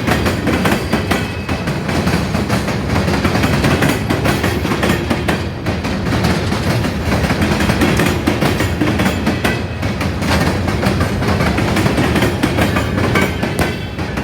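The cars of a long coal train rolling past, with a steady rumble and wheels clicking and knocking over the rail joints.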